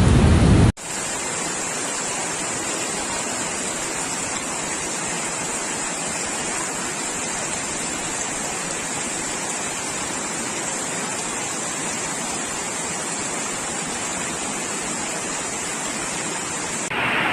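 Steady rush of water, a constant even hiss that starts abruptly just under a second in and cuts off near the end.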